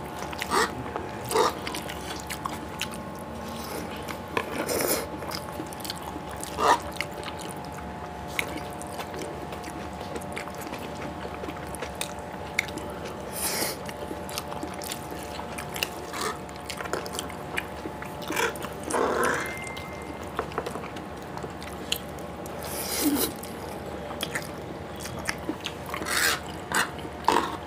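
Close-miked eating of soft Maggi noodles: chewing and wet mouth sounds, with scattered short clicks and smacks from forks on the tray, over a steady faint hum.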